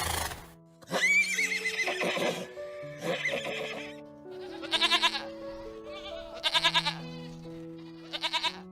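An animal calling several times over background music: one long wavering call about a second in, then three short, rapidly pulsing calls.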